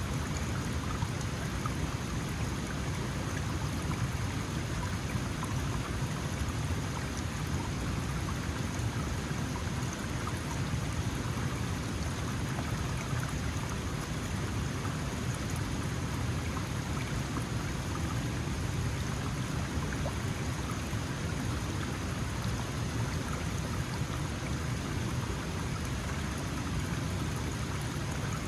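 Small mountain stream flowing over rocks, a steady, even rush of water.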